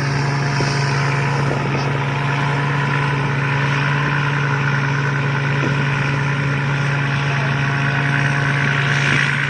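Rice combine harvester running steadily while harvesting, its engine giving a constant low hum over a steady mechanical clatter.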